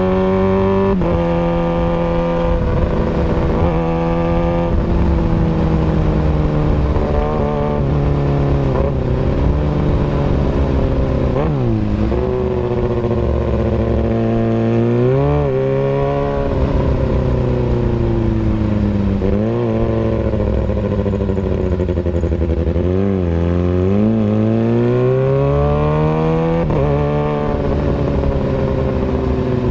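Kawasaki Ninja ZX-636 inline-four engine running through an Austin Racing exhaust. Its pitch sags and rises again several times over the stretch, in swoops of revs.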